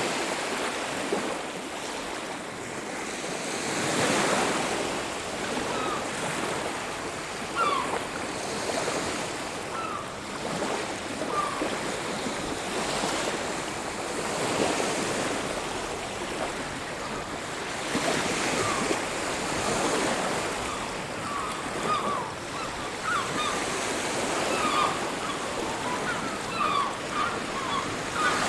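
Waves breaking and washing on a beach, the surf swelling and falling back every few seconds. Short chirping bird calls sound over the surf, more often toward the end.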